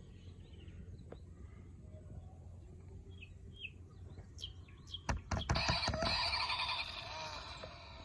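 A few short, high bird chirps, then several sharp clicks about five seconds in and a louder, busier stretch of calls.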